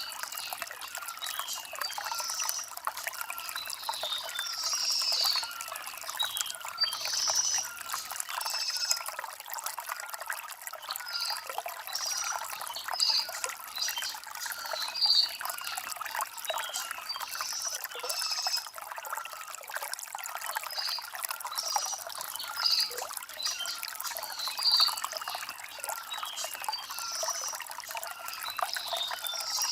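Shallow stream trickling and bubbling over stones, a light, high water sound with no deep rush, while birds chirp briefly every second or two.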